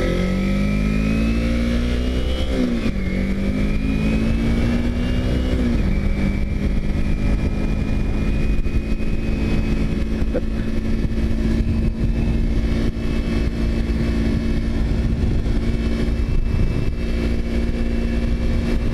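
2009 Kawasaki Ninja 250R motorcycle engine accelerating, its pitch climbing through two upshifts in the first six seconds, then holding a steady cruise with wind rumble underneath.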